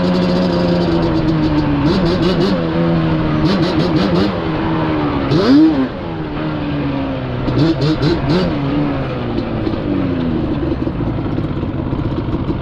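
Yamaha Banshee's two-stroke parallel-twin engine revving up and down as the quad is ridden, the pitch rising and falling with the throttle. About five and a half seconds in there is a quick, sharp rev and drop, the loudest moment.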